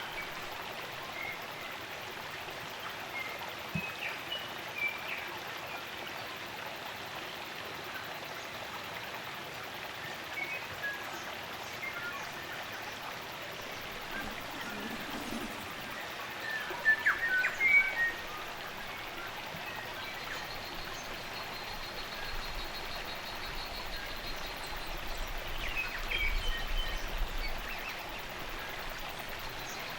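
Spring-fed stream running steadily, with native forest birds chirping and calling now and then over it. A louder burst of calls comes just past halfway, and a thin high trill holds for several seconds after it.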